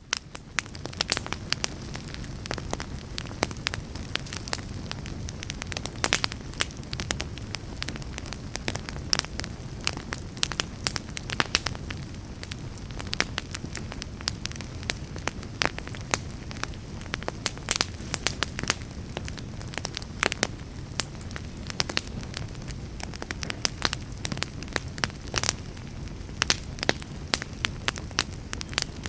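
Wood log fire in a fireplace crackling, with frequent irregular sharp pops and snaps over a steady low rush of the flames.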